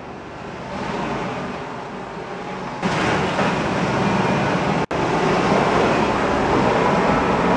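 Vehicle engine and driving noise in a few edited clips. It fades in, changes abruptly about three seconds in, and breaks off for an instant near five seconds.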